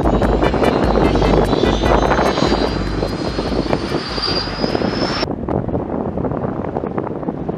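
Aircraft engine running, with a high whine that slowly rises in pitch, over heavy wind buffeting the microphone. The whine cuts off suddenly about five seconds in.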